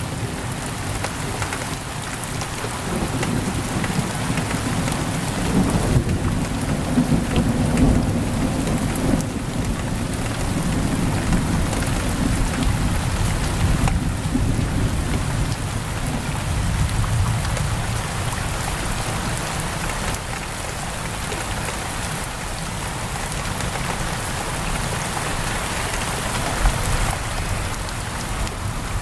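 Heavy rain pouring steadily on a window, with a low rolling thunder rumble that is strongest in the first half and eases off later.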